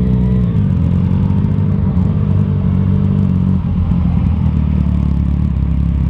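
Yamaha FZ-09 (MT-09) motorcycle's inline-three engine with an aftermarket exhaust, running steadily at low revs during slow riding, its pitch dipping slightly about half a second in.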